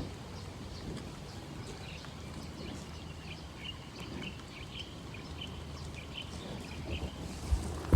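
Outdoor ambience: a steady low hum, with a run of short, high chirps from a bird through the middle.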